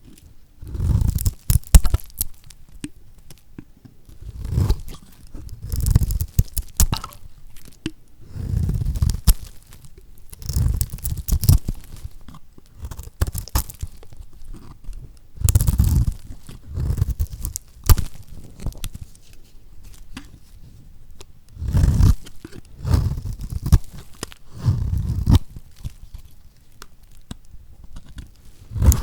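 Lacquered soap being cut, each cut a short crackling crunch with a low thud. The cuts come one after another at uneven gaps of a second to a few seconds.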